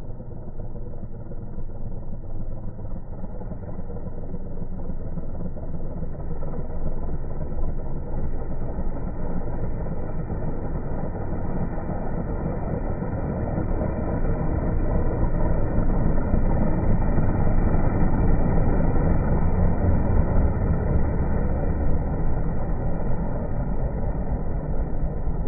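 Engine of a radio-controlled model aeroplane running, a steady low drone that grows louder over the first two-thirds and then eases slightly.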